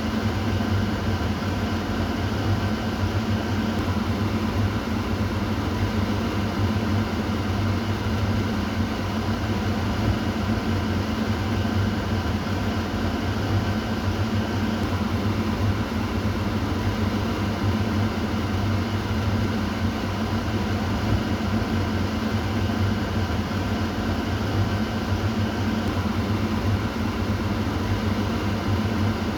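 Kitchen exhaust fan running steadily, a constant whooshing of air over a low motor hum.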